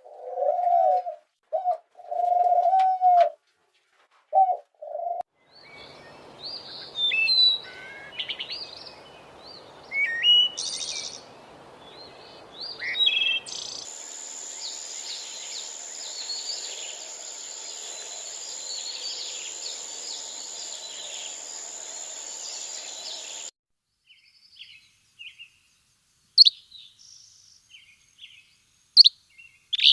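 Birds calling in a run of separate recordings. First a dove cooing in short low phrases, then songbirds chirping and calling high. In the middle, a dense chorus of high calls over a steady hiss stops abruptly, and it ends with a few sharp chirps.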